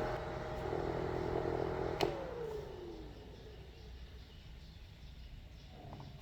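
Small battery-powered motor of a homemade fan running with a steady hum, then a click about two seconds in as it is switched off, its hum falling in pitch as it spins down.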